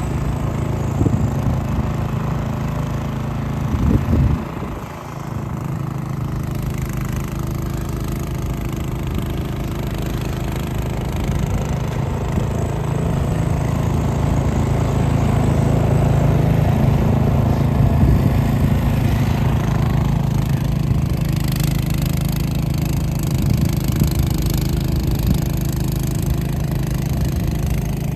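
An engine running steadily, with a short dip in level about four to five seconds in.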